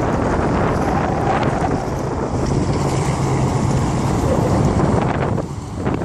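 Wind buffeting the microphone on a moving jet ski, with the watercraft's engine and water rushing underneath. The noise is steady and dips briefly near the end.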